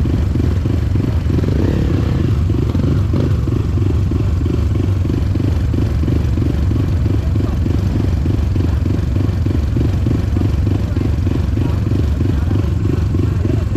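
Motorcycle riding along at a steady pace: engine running with heavy low wind rumble on the microphone and a regular pulsing.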